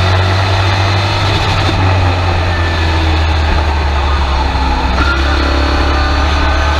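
Race truck's engine running loud and steady, heard from inside the cab through the in-car camera.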